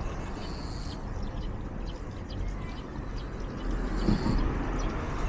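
Outdoor ambience with a steady low rumble, over which a bird gives two brief high-pitched calls about three seconds apart.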